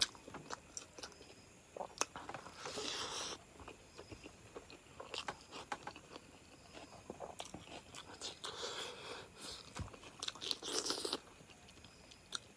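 Close-miked chewing of rice and chicken curry: wet mouth clicks and smacks, with two longer stretches of louder, noisier chewing.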